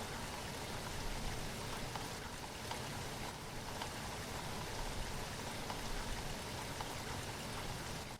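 Steady rain falling, with many individual drops ticking on a surface. The sound dips sharply for a moment at the very end.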